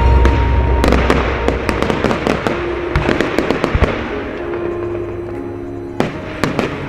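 Fireworks exploding: a deep boom at the start, then a dense run of sharp crackling pops that thins out, and a few more sharp bangs near the end, with music playing underneath.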